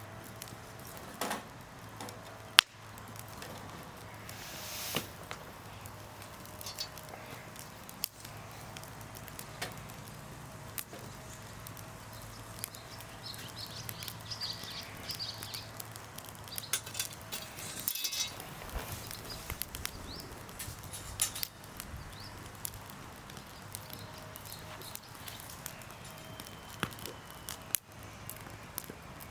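Wood campfire crackling, with irregular sharp pops and one loud crack about two and a half seconds in.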